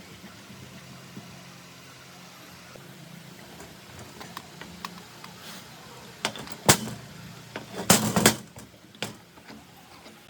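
A steady low hum with a few sharp knocks and clatters of hard objects, most of them between six and nine seconds in, the loudest a cluster around eight seconds.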